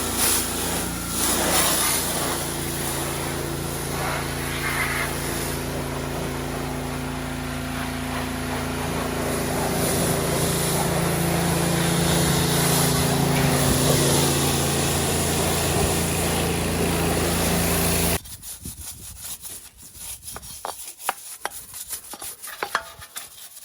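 Pressure washer running and spraying the engine clean: a steady drone under a dense hiss of water spray. About 18 seconds in it cuts off abruptly, leaving a quieter stretch of scattered light clicks and taps.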